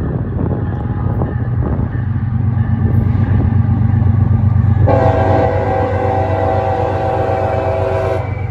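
CSX freight diesel locomotives running past with a heavy low rumble; about five seconds in the locomotive's air horn sounds a long multi-note chord, held for about three seconds.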